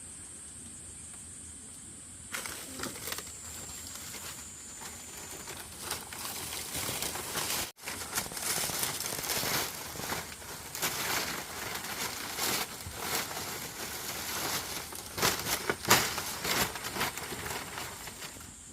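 Rustling and crinkling with many scattered clicks and crackles, over a steady high-pitched drone like insects in the first part.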